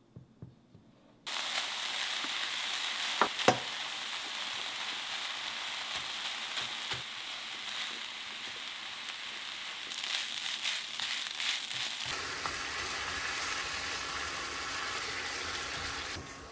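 Food sizzling in a frying pan while a silicone spatula presses and stirs it: fried rice first, with a couple of sharp clicks about three seconds in, then ground beef in another pan about twelve seconds in. The sizzle begins suddenly after a second of near silence and drops in level near the end.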